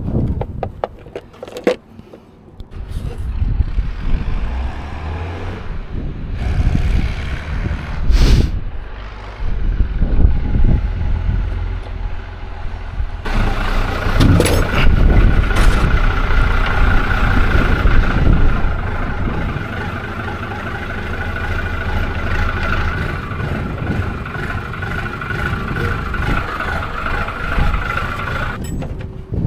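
A motor vehicle's engine running with a low rumble; a steady high whine joins it about halfway through and stops just before the end.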